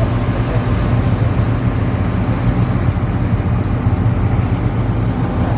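A motor vehicle running with a steady low drone, an even hum with no revving or changes.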